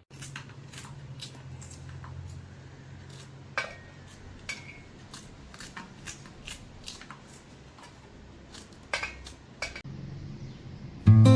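Metal kitchen utensils clinking and tapping: about fifteen light clinks, a few of them ringing briefly, over a steady low hum. Acoustic guitar music starts near the end.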